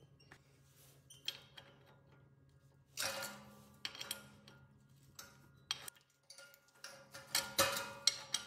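Metal parts and tools clinking, clattering and scraping in a workshop, with a louder clatter about three seconds in and again near the end.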